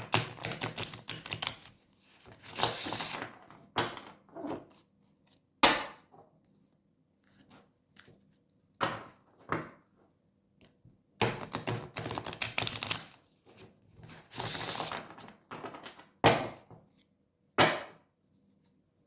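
Tarot cards being shuffled by hand: bursts of quick clicking card edges and two longer riffling rushes. A few sharp single knocks come between them.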